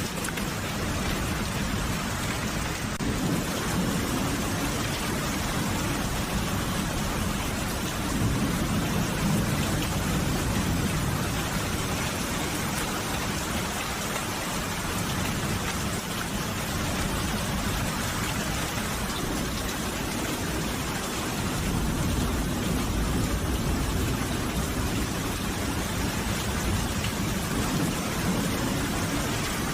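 Steady rain falling, with low rolling thunder rumbling in two long swells, the first about three seconds in and the second past twenty seconds.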